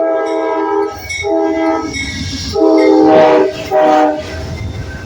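Locomotive horn sounding four blasts, a chord of several steady tones, the last blast the shortest, over the low rumble of the train.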